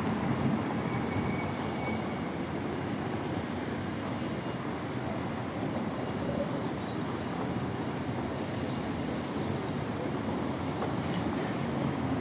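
Steady city street noise of vehicles running past, with no distinct single event standing out.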